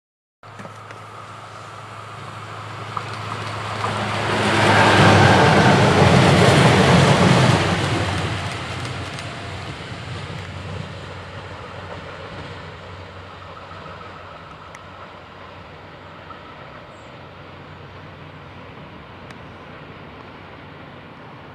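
A DB class 223 diesel-electric locomotive (Siemens Eurorunner) hauling two class 193 Vectron electric locomotives passes by. It comes in with a low engine drone that grows, is loudest about four to eight seconds in as the wheels run past on the rails, then fades away.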